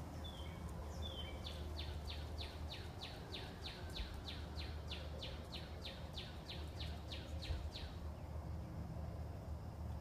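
A bird singing a long series of quick, evenly repeated down-slurred whistles, about three a second, starting about a second in and stopping after roughly six seconds, over a low steady rumble.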